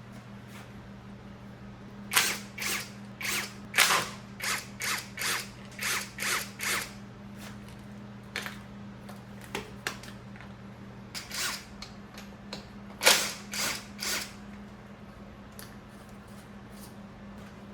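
Tools working fasteners while a motorcycle is taken apart: a run of about ten short rasping strokes, roughly two a second, then three more a few seconds later, over a steady low hum.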